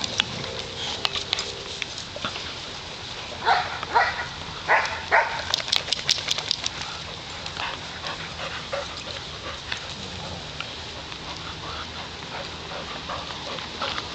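Dogs barking: four short barks about three and a half to five seconds in, then a few sharp clicks and scattered quieter yips over a steady background hiss.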